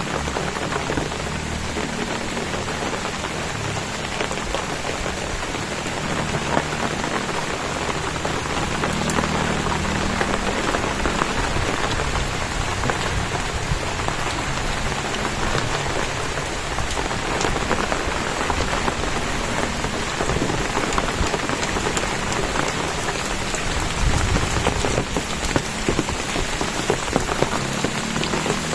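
Steady rain falling, with many close drops pattering on surfaces.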